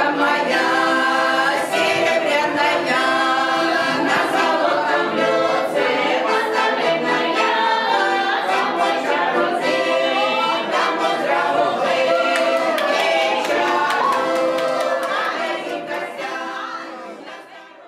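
A choir singing a cappella, several voices in harmony, fading out near the end.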